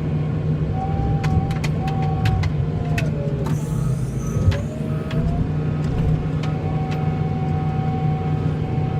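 Engine of a snow-plowing vehicle running steadily, with a whining tone that drops in pitch about halfway through and then rises again as the engine slows and picks back up. A few light clicks and knocks sound over it.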